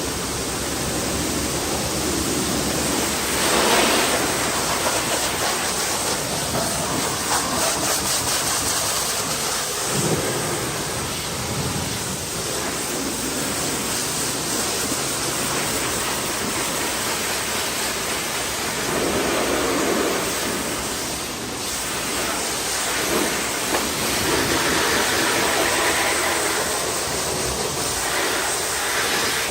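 Pressure-washer spray hitting a car's bodywork, a steady hiss that swells louder a few times as the jet moves over the panels.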